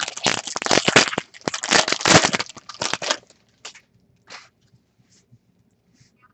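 Foil trading-card pack wrapper crinkling and tearing as it is opened, loud and crackly for about three seconds, then a few soft rustles of cards being handled.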